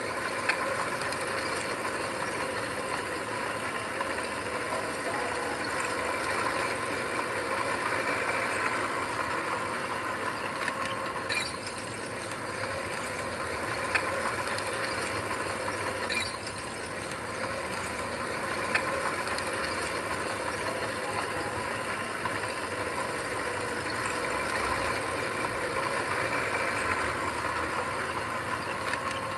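Heavy earthmoving machine's diesel engine running steadily, with metal clanks and knocks now and then, about four times in all.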